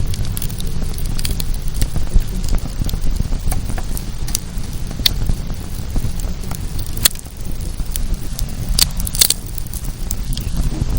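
Wood bonfire burning, with a steady low rush under scattered sharp crackles and pops; a few louder pops stand out in the second half.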